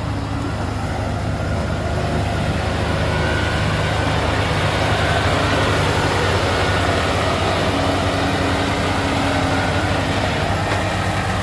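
Heavy diesel engine running steadily, a low hum that swells slightly about halfway through.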